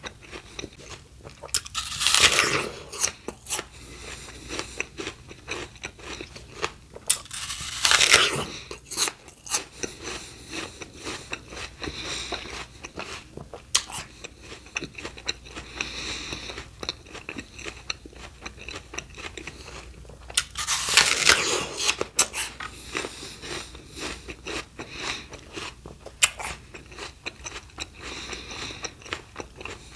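Crunchy bites into raw fruit or vegetables followed by chewing, with three loud crunching bites about two, eight and twenty-one seconds in and steady crunchy chewing between them.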